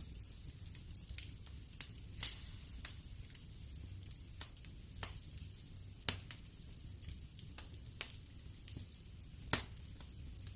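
Wood fire burning in a fireplace: a low steady rumble with irregular sharp crackles and pops, a few louder pops standing out.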